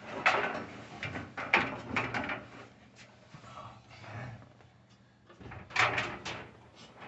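Scraping, rubbing and knocking as a new drum belt is worked around the drum of a Whirlpool Cabrio dryer, with rubber and sheet metal bumping in irregular bursts. The loudest bursts come about a second and a half in and again around six seconds.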